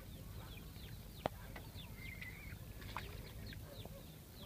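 Birds chirping: many short, quick falling chirps, one held wavering note about two seconds in, over a low steady rumble, with a single sharp click a little over a second in.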